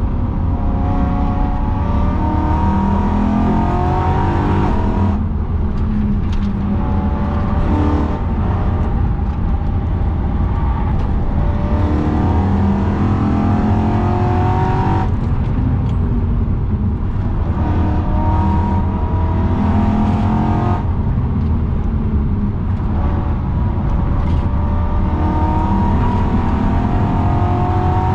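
BMW E92 M3's 4.0-litre V8, with aftermarket downpipes, being driven hard on track, heard from inside the cabin: it revs up again and again, its pitch climbing for several seconds at a time and breaking off sharply at each lift or shift, over a steady heavy rumble of road and wind noise.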